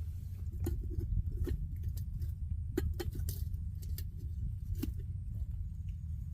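Campfire crackling: irregular sharp pops and snaps from burning wood over a constant low rumble.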